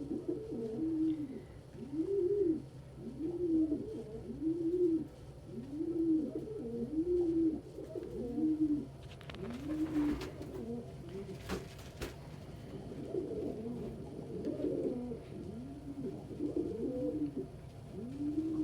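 Domestic pigeons cooing over and over, about one rising-and-falling coo a second, with two brief sharp sounds about ten and twelve seconds in.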